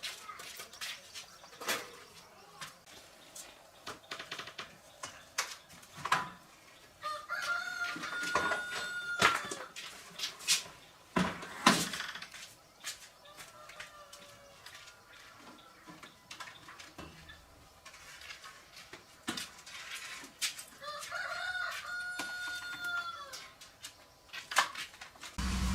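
A rooster crowing twice, one crow about eight seconds in and another about twenty-two seconds in, each held high and then falling away. Scattered clicks and knocks run throughout.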